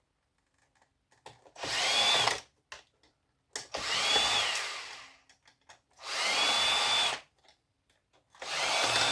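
Power drill-driver run in four short bursts of about a second each. Its motor whine rises and then drops away each time the trigger is squeezed and let go.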